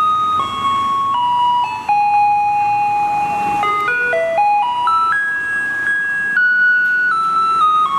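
Taiwanese garbage truck's loudspeaker playing its electronic chime melody: single tones held a second or more each, stepping down and then back up.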